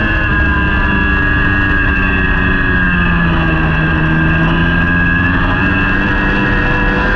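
Racing superbike engine running hard at high revs, loud and steady. Its pitch sags a little around three seconds in, then climbs back up.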